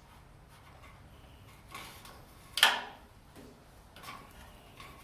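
Light handling noises of wiring and parts being worked by hand, with one short sharp knock about two and a half seconds in.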